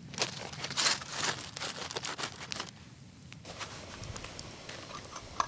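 Rustling and crinkling with many quick crackles and clicks for about three and a half seconds, then fading to a few scattered ticks.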